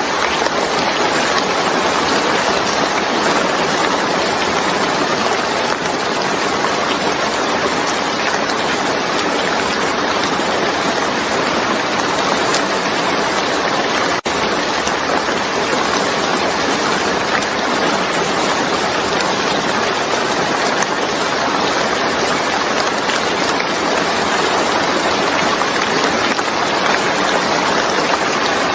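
Steady, heavy rain: a dense, even hiss of falling rain with no letup, broken only by a momentary dip about halfway through.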